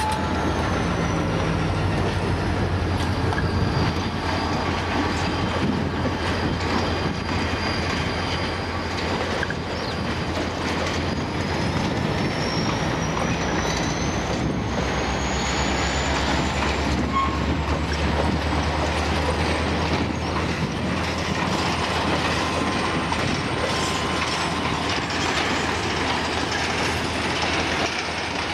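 A diesel-electric freight train passing at speed: locomotive engines drone low and steady, the wheels knock over rail joints, and a thin high wheel squeal glides down and back up over the first half. Later the engine drone fades as the hopper wagons roll by.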